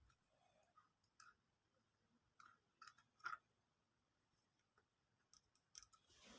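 Near silence, broken by a few faint, scattered clicks and taps of small parts being handled. The loudest comes a little past three seconds in.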